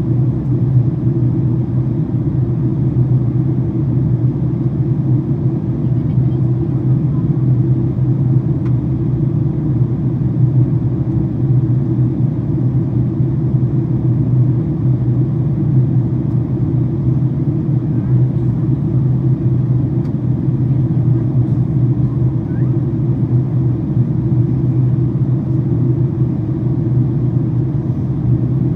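Steady low rumble of a Boeing 767-400ER's cabin in flight: engine and airflow noise heard from the economy seats, unbroken and even in level, while the airliner descends.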